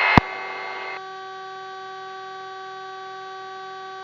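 Police helicopter cockpit audio: a click as the radio cuts off just after the start, then the helicopter's steady hum and whine through the crew intercom, with the background hiss dropping away about a second in.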